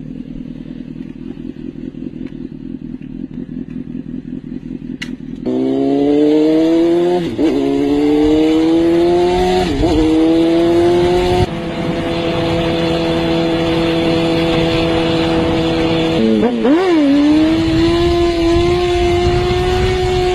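Motorcycle engine: a fast pulsing idle at first, then accelerating with the pitch climbing and dipping briefly at each gear change, holding a steady speed, with another quick dip and recovery near the end.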